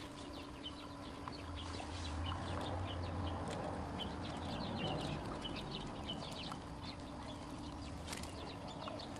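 Birds chirping and calling over and over, many short high notes scattered throughout, over a steady background, with a low rumble in the first few seconds.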